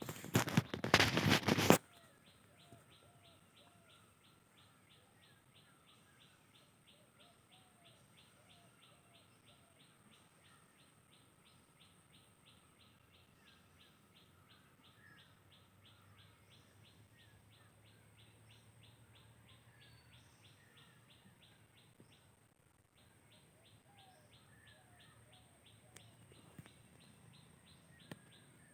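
Faint small birds chirping, over a fast, even ticking that runs on steadily. In the first two seconds a brief loud rustling burst covers everything.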